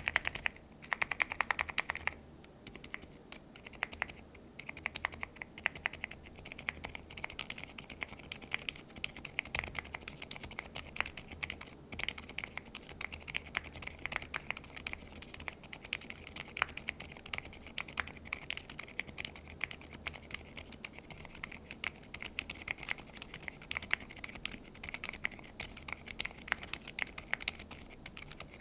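Typing on an aluminium-cased neo65 mechanical keyboard with a carbon-fibre plate and Osume Little Ghost silent linear switches: a steady, irregular stream of quiet, muted keystrokes.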